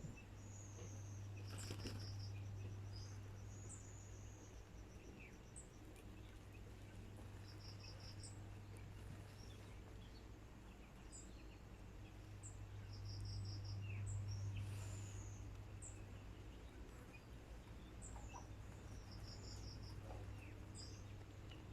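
Faint, short, high-pitched bird chirps scattered throughout, with little trills of about five quick pulses repeating every few seconds, over a steady low hum.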